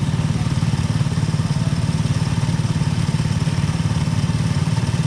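Kart engine running at a steady, fast-pulsing note, with no clear revving up or down.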